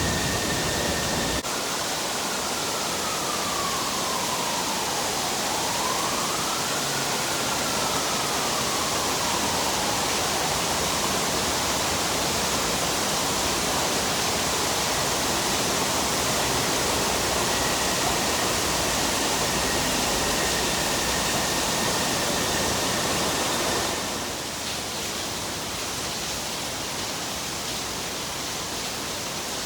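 Heavy rain falling as a steady, dense hiss. In the first ten seconds a faint whine from an MRT train's electric motors dips in pitch and rises again; the rain noise eases slightly near the end.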